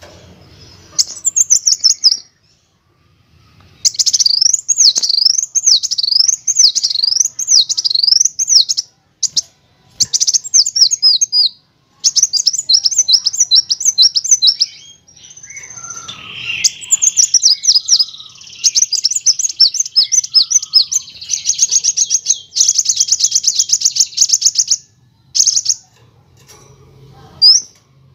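Kolibri wulung (a sunbird) singing a high-pitched, chattering song: runs of quick up-and-down sweeping notes and rows of short chirps come in bursts with brief pauses. A fast, dense rattling trill comes about two-thirds of the way through.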